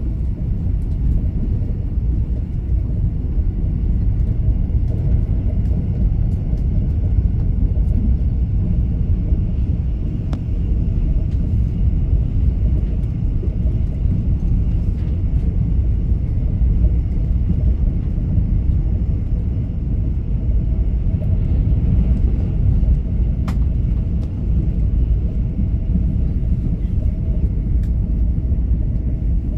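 Passenger train running at speed, a steady low rumble of wheels on rails heard from inside the carriage, with a couple of brief sharp clicks.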